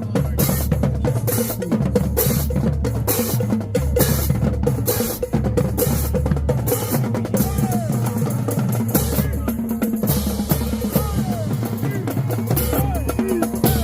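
Marching band drumline playing a steady cadence: snare drums, bass drums and cymbals keeping a regular beat.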